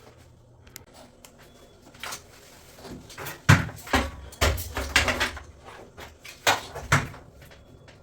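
A run of sharp knocks and clunks of hard objects being handled, starting about three and a half seconds in, after a quiet start.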